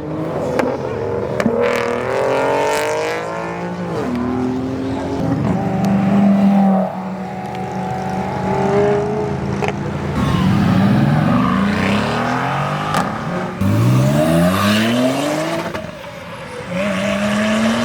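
Performance car engines revving and accelerating hard as they pull away, the pitch climbing steeply several times with steadier running between pulls. Around one pull the engine is shooting flames from the exhaust.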